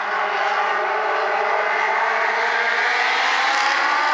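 A pack of Legends race cars running their Yamaha 1250 cc motorcycle engines together, the pitch climbing slowly over the last couple of seconds as the field picks up speed for the start.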